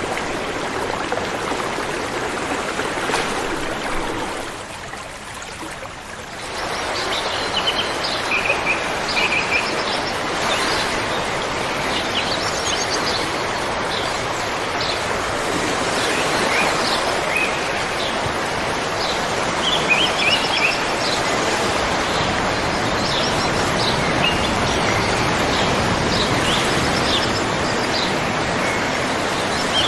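A river flowing with a steady rush of water, which dips briefly about five seconds in. From then on small birds chirp repeatedly over the water.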